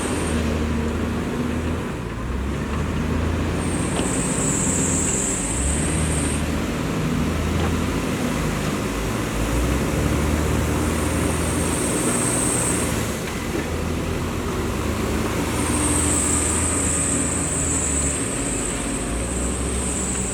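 Heavy diesel construction machinery running under varying load, its low rumble swelling and easing. A high whine comes in and fades four times, lasting from one to about five seconds each.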